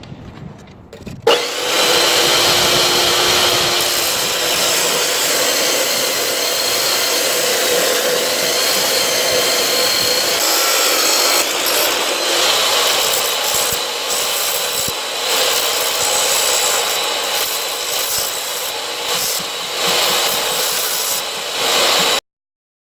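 A power grinder working steel, running steadily with a faint motor whine. It starts abruptly about a second in and cuts off suddenly near the end.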